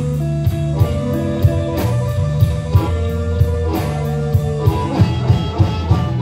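Live blues band playing between sung lines: guitar over a steady drum beat with a strong, sustained bass line.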